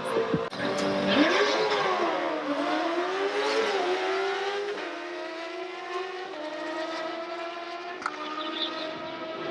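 Car engine revving up and down unevenly, then accelerating hard with two upshifts, one about five seconds in and one about six and a half seconds in: a drag-race run.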